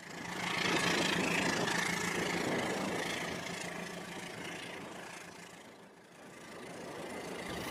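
Battery-powered toy train running along plastic track, a steady motor-and-wheel rumble. It grows louder over the first second, fades slowly as the train moves away until about six seconds in, then grows again as it comes back.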